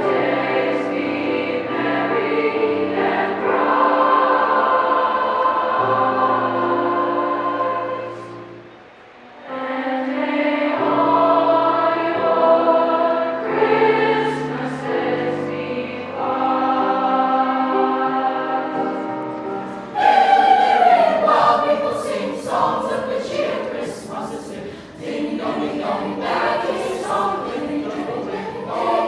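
School choir singing held chords, with a short breath-pause about nine seconds in; about twenty seconds in the sound switches abruptly to a brighter recording of singing.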